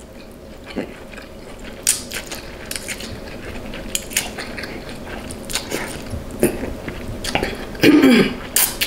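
Close-up chewing and biting of king crab meat in a buttery seafood-boil sauce: irregular wet smacks and clicks. Near the end comes a short voiced sound, falling in pitch.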